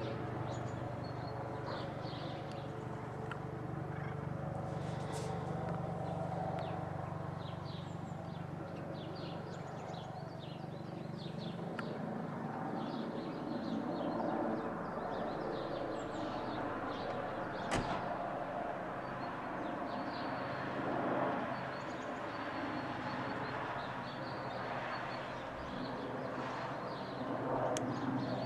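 Police helicopter running at a distance, a steady low hum that fades after about twelve seconds, with small birds chirping throughout and a single sharp click just past the middle.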